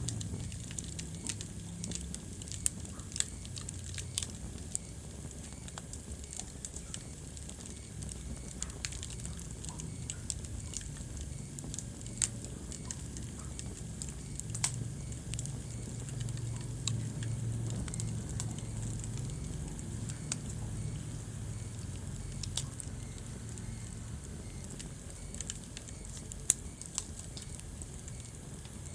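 Wood fire burning in a fireplace, crackling with frequent sharp pops and snaps over a low steady rumble.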